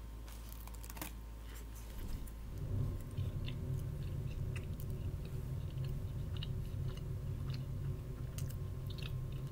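Close-up chewing and biting of a breaded sandwich, with small wet mouth clicks. The chewing gets louder about two and a half seconds in and keeps going.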